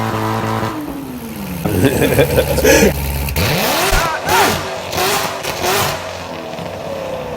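Car engine with aftermarket headers being revved repeatedly, its pitch climbing and dropping with each throttle blip, with a quick run of sharp revs about four to six seconds in.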